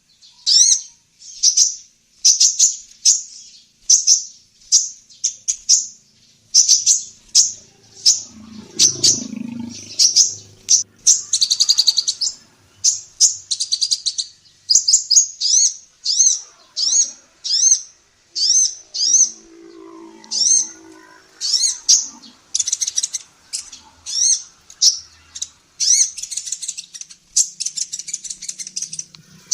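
Female kolibri ninja sunbird singing a fast, continuous string of short, high-pitched chirps and trills, two to four notes a second.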